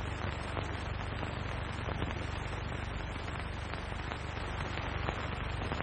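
Steady hiss and low hum of an early sound-film soundtrack, with a few faint clicks. No other sound stands out.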